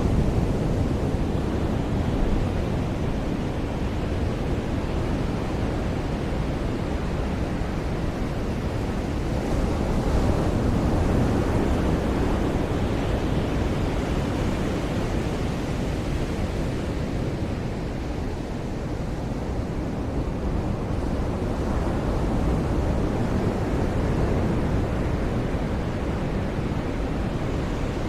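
Surf on a beach: continuous wash of breaking waves, swelling and easing slowly, with wind noise on the microphone.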